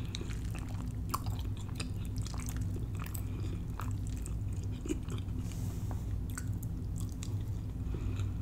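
Close-up mouth sounds of someone chewing a mouthful of creamy baked macaroni and cheese: soft wet smacks and small clicks scattered irregularly, over a steady low hum.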